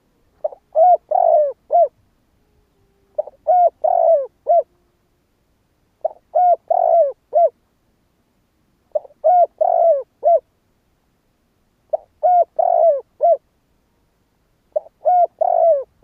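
Spotted dove cooing: six phrases of several short coo notes each, repeated about every three seconds.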